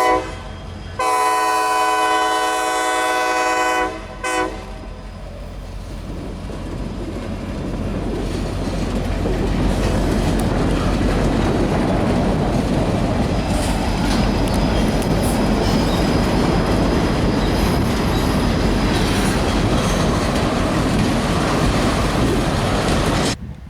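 Norfolk Southern freight train's diesel locomotive horn: the tail of one blast, a long blast of about three seconds, then a short blast. The train's passing noise then builds over several seconds into a steady rush of wheels on rail and cuts off suddenly near the end.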